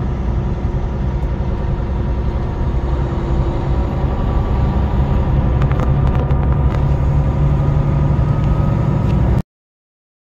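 Semi truck driving, its diesel engine running in a steady drone over heavy road rumble. The sound cuts off suddenly about nine seconds in.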